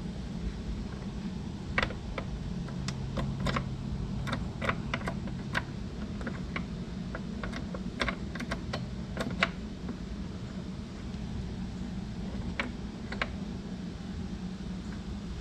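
Irregular light clicks and taps of small metal lock hardware being handled and fitted to a saddlebag, most of them in the first two-thirds, over a steady low hum.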